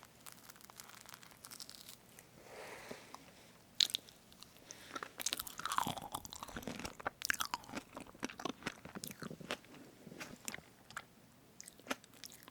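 Close-miked eating of a strawberry whipped-cream cake: soft wet chewing and biting with many small mouth clicks, and the cream being parted. A sharp click comes a little under four seconds in.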